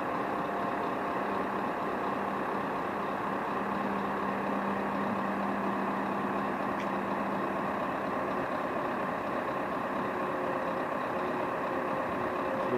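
Scania R500 truck's V8 diesel engine idling steadily.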